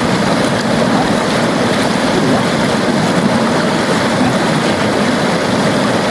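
Flowing river water rushing steadily, an even full-bodied noise with no breaks.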